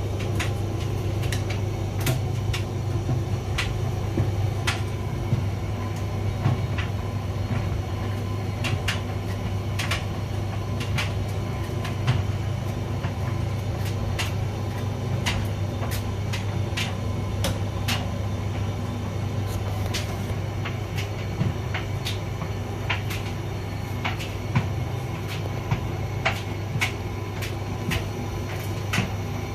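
Hotpoint vented tumble dryer running: a steady hum from the motor and turning drum, with irregular clicks and taps as the load tumbles inside.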